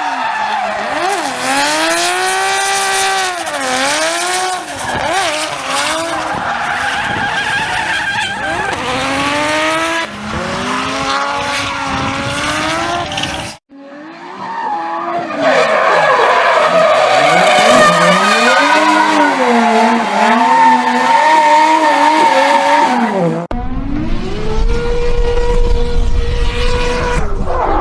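Drift cars' engines revving hard, their pitch sweeping up and down as the throttle is worked, over loud tyre squeal and skidding. The sound cuts off suddenly about halfway and again near the end as it switches to another car, the last one holding a steady high engine note over a low rumble.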